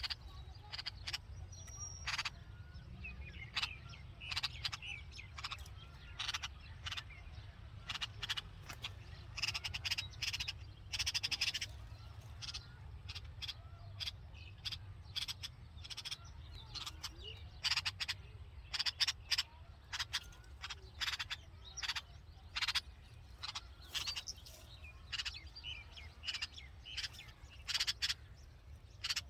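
Red-vented bulbuls at a nest with chicks: many short, sharp chirps repeated at irregular intervals, some coming in quick runs, over a steady low rumble.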